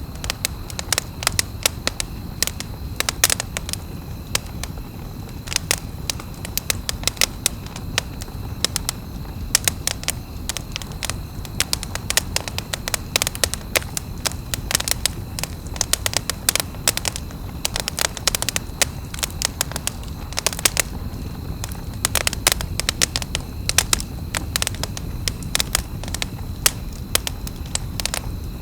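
Wood campfire crackling, with many irregular sharp snaps and pops over a steady low rumble of the burning fire.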